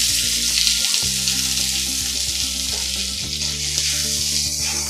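Diced potatoes and vegetables sizzling in hot oil in a steel kadai while a steel spatula stirs them.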